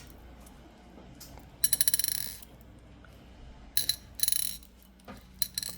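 Crystal beads clicking and rattling against each other in several short bursts, the longest about a second and a half in.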